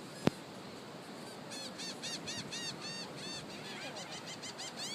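A sharp click about a third of a second in, then seagulls calling in a rapid run of short, high cries from about a second and a half in.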